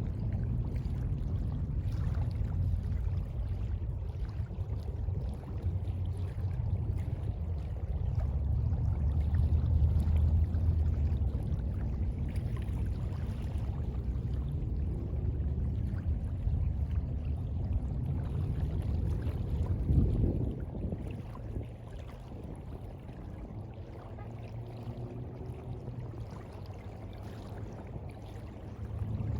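Sea water washing and rumbling low and steady, swelling louder about twenty seconds in and then settling.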